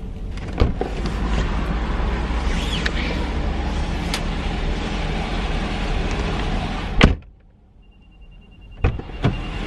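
Car running inside the cabin with a steady low hum, shut off with a loud click about seven seconds in, after which it goes quiet. A couple of clicks follow, then a faint, steady, high warning tone, typical of a car's key-in-ignition chime.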